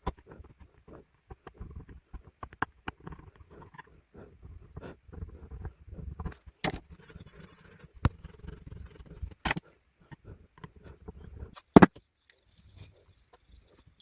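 Irregular clicks and knocks of small parts being handled, with a short hiss about halfway through and one sharp knock near the end.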